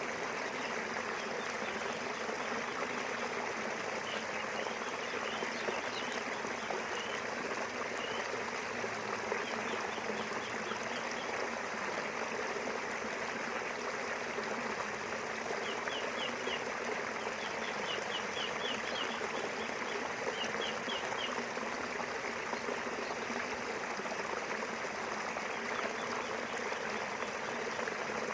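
River water flowing steadily. Birds chirp over it in several quick runs of short, high notes.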